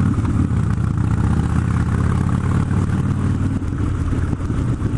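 Harley-Davidson Dyna FXD's Twin Cam 96 V-twin engine running steadily as the motorcycle is ridden, its primary drive fitted with a new compensator.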